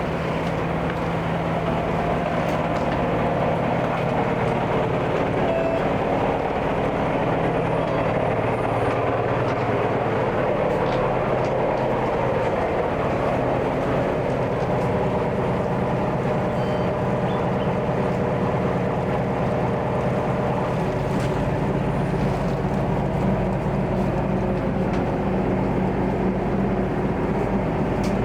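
Engine of a small harbour ferry boat running steadily while under way, a loud, even drone with a low hum.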